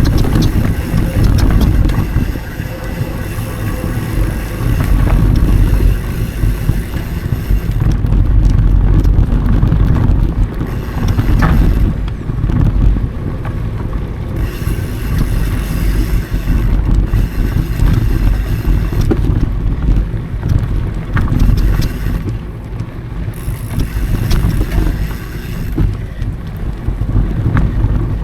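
Wind buffeting the action camera's microphone while a mountain bike rolls over dry dirt singletrack, with tyre rumble and scattered clicks and rattles from the bike. The level keeps rising and falling with the ride.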